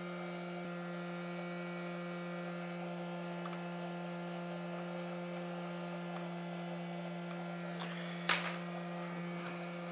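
Steady electrical mains hum: a low, even tone with a row of higher overtones. A short sharp noise breaks in about eight seconds in.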